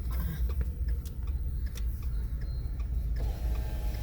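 Car engine running with a low rumble heard from inside the cabin as the car pulls into a parking space, with scattered light clicks. About three seconds in, a steady mechanical whine starts.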